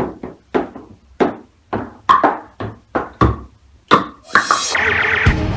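A quick, uneven series of sharp knocks or taps on a hard object, each with a short ring, about two to three a second. About four seconds in, a brief rush of noise, then upbeat music starts near the end.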